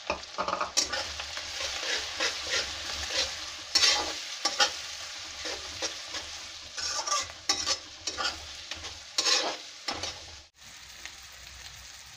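Wet spice paste sizzling in hot oil in a kadai as it is poured onto the frying onion base, then a spoon stirring and scraping through the masala with repeated strokes, the frying sizzle steady underneath. The sound cuts out briefly about ten seconds in.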